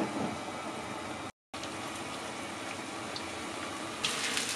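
Breaded pork cutlets shallow-frying in oil in a frying pan: a steady, gentle sizzle. It cuts out for a moment a little over a second in, and grows louder and brighter near the end.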